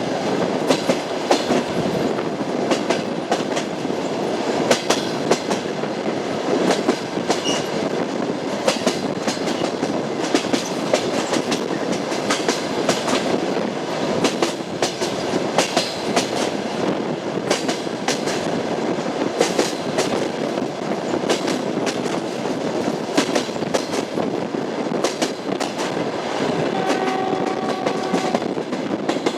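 Passenger train wheels clattering over the rail joints of jointed track under a steady running rumble, with frequent sharp clicks as the wheels cross the joints.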